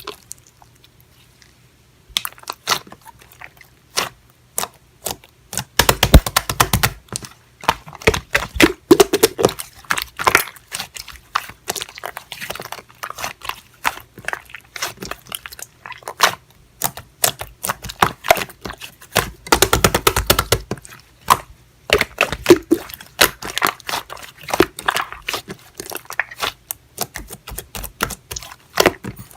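Close-miked crunching and crackling, like an ASMR video: many sharp crackles in quick runs, broken by short pauses.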